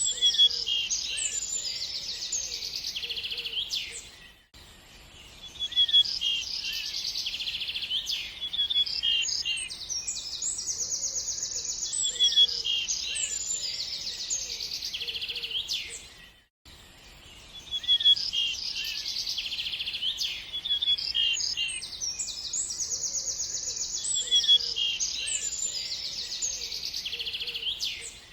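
Small birds chirping and singing in fast trills, high-pitched. The recording repeats as a loop about every twelve seconds, with a brief dropout between repeats.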